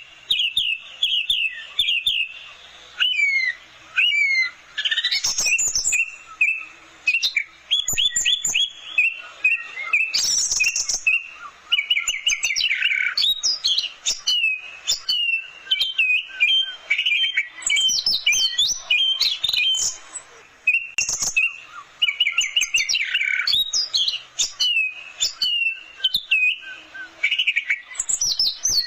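Orange-headed thrush singing a long, varied song of fast runs of repeated notes and high whistles, with only brief pauses.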